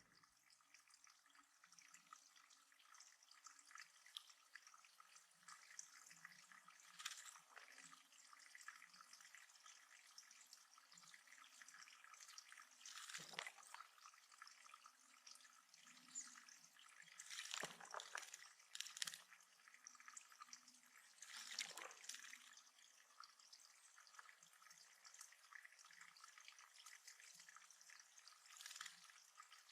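Water dripping and trickling into a backyard bird pond, with a few louder splashes.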